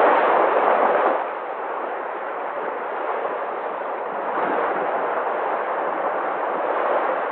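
Sea waves breaking and washing ashore in a continuous surf, with a louder wave surging in the first second and softer swells after.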